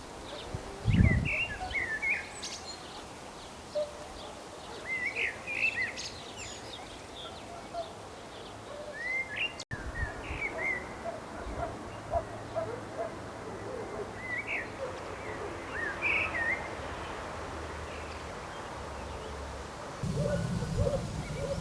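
Songbirds chirping and singing in short, quick rising and falling notes over a steady background hiss. Near the end a louder low rumble comes in.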